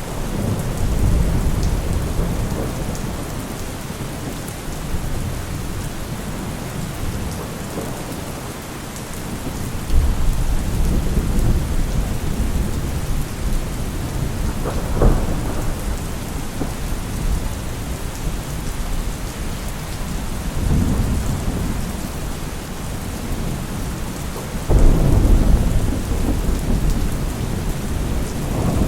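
Heavy rain falling steadily under almost continuous rolling thunder. Deeper thunder rumbles break in suddenly about ten seconds in and again near the end.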